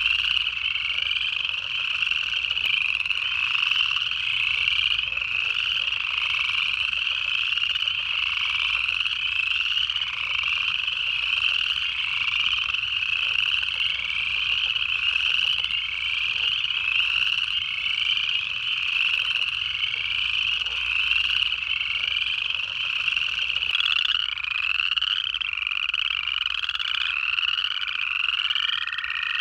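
Dense chorus of upland chorus frogs, many overlapping short ascending trills repeating without pause. Near the end a single steady, long American toad trill comes in beneath them.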